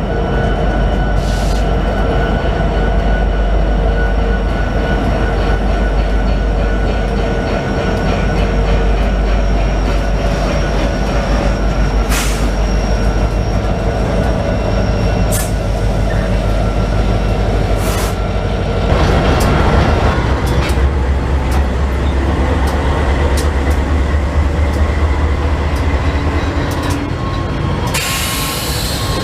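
Ferromex train moving by: the diesel locomotive's engine runs with a heavy, steady low rumble, while steel wheels squeal thinly and click sharply over the rails now and then. A short burst of hiss comes near the end.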